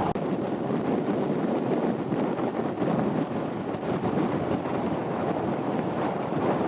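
Strong wind blowing across the microphone: a steady, fairly loud rushing noise that rises and falls a little.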